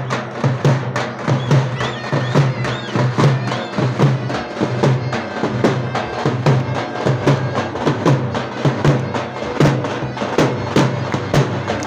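Davul and zurna playing a dance tune: the davul beats out a steady, driving rhythm of repeated strokes under the zurna's melody.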